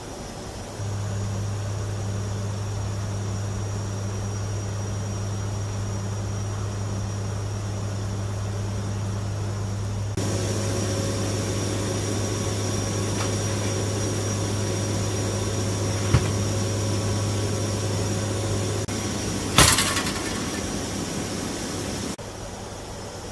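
Steady low drone of a WC-130J Super Hercules's turboprop engines and propellers in flight. About ten seconds in the sound turns brighter and noisier, and near the end a single loud sharp knock stands out.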